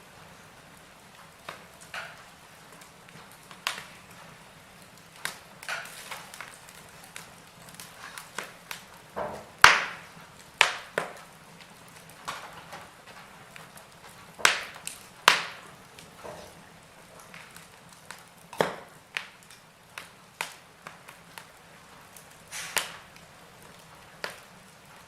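Wood fire burning in a fireplace: logs crackling and popping at irregular intervals over a faint steady hiss, with a few sharper, louder pops about ten and fifteen seconds in.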